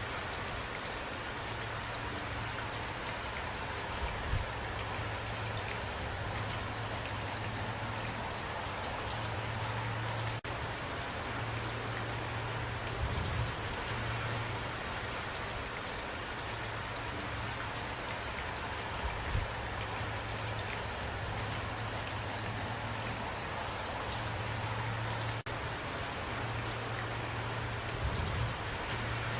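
Steady rain falling, an even patter of raindrops, with a few brief low thumps scattered through it.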